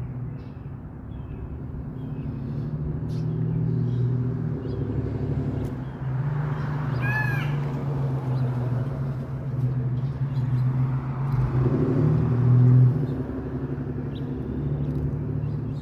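A motor vehicle's engine running steadily, its hum swelling and easing, with a short run of bird chirps about seven seconds in.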